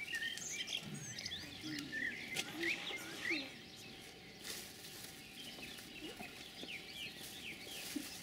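Small songbirds chirping, many short quick calls overlapping one another, with faint low sounds beneath in the first few seconds.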